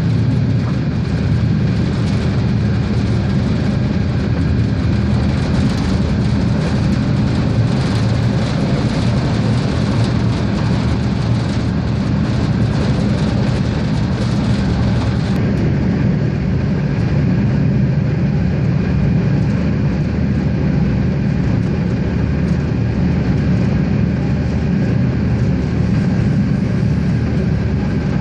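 Regiosprinter diesel railcar running along the line: a steady engine drone with rail and running noise. The higher hiss drops off abruptly about halfway through.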